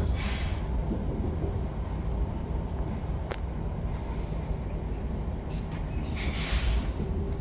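Regional electric train running on the rails, a steady low rumble with two short hisses, one just after the start and a longer one about six seconds in, and a single click a little past three seconds.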